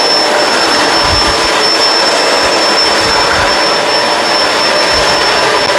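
Kenmore Crossover Ultra upright vacuum cleaner running steadily at full power, a loud, even rush of air with a thin, steady high whine.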